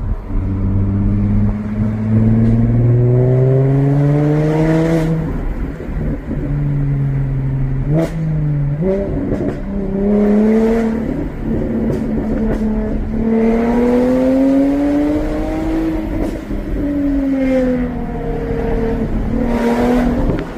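Jaguar F-Type's supercharged 3.0 V6 accelerating on a stainless straight-tube exhaust, with the rear silencer and valves removed. The engine note climbs in pitch in several pulls with drops between them, then falls away near the end.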